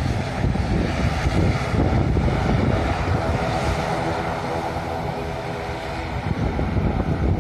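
Airliner engines running as a plane passes near the airport runway, their drone strongest in the middle and fading near the end, under heavy wind buffeting the microphone.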